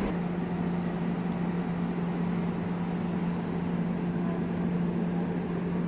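Multiple-unit passenger train pulling slowly into the platform, its running gear giving a steady low hum over a soft rumble.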